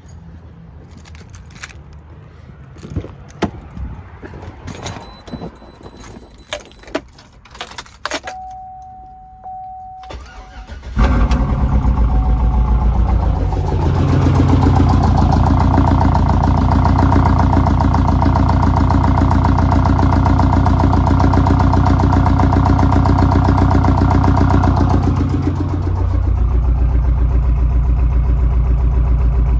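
Chevy Tahoe's LS V8, fitted with a Texas Speed Stage 2 cam and LS7 lifters and running without a tune, starting for the first time after the swap. It catches suddenly about 11 seconds in and runs at a steady high idle, then drops to a lower idle near the end. Before it starts there are scattered clicks and knocks and a short chime.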